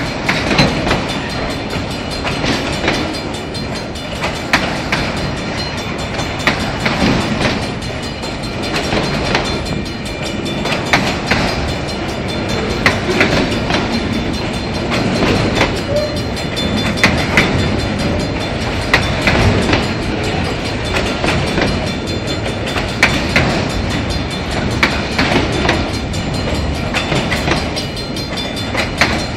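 Loaded autorack freight cars rolling past at close range: a steady rumble of steel wheels on the rails, broken by frequent sharp clicks and clacks.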